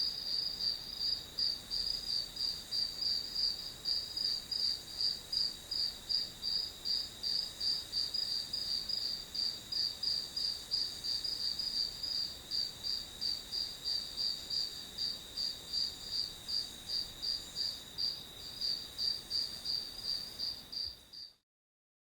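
Cricket chirping in a steady, even rhythm of high-pitched pulses, about three a second, that cuts off suddenly near the end.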